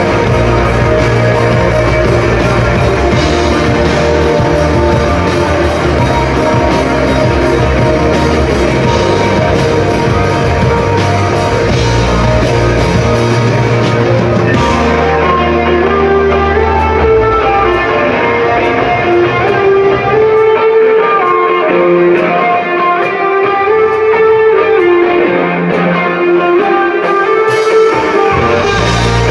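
Rock band playing live with electric guitars, bass and drums. About halfway through, the bass and drums drop out and guitars play a melodic line on their own. The full band comes back in near the end.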